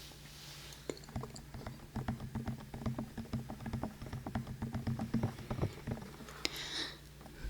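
Rapid fingertip tapping, many light taps a second for about five seconds, followed by a short rustle near the end.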